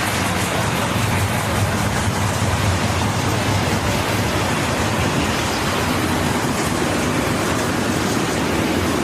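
Freight train passing close by: a steady rolling noise of wheels on rail over a low, even diesel engine hum.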